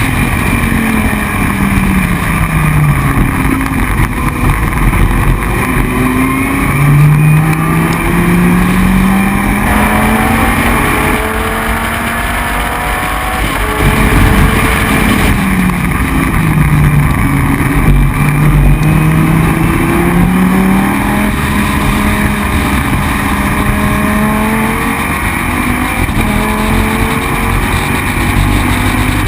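Dodge Viper GT3 race car's V10 engine at racing speed, climbing through the gears in stepped rises and dropping in pitch under braking and downshifts, several times over.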